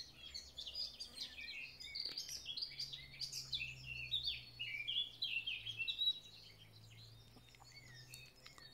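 Several songbirds singing at once, a dense chorus of quick chirps and trills that thins out to a few scattered notes after about six seconds.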